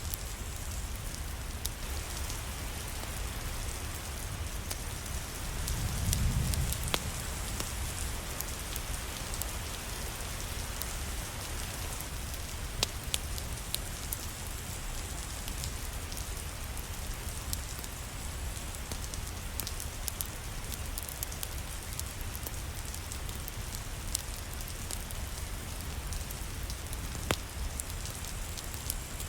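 Steady rain falling, with scattered sharp ticks through it and a brief low rumble about six seconds in.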